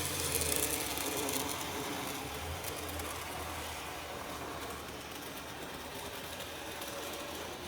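N gauge model train running on its track: the small electric motor and wheels make a steady mechanical whirr and rattle that gradually gets quieter.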